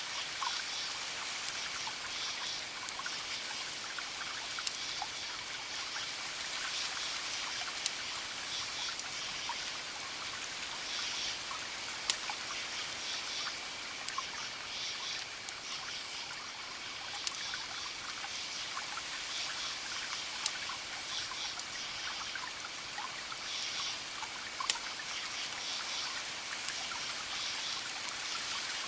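Campfire crackling, with sharp pops every few seconds, over crickets chirping in repeated pulsed bursts and a steady rushing hiss of distant ocean waves.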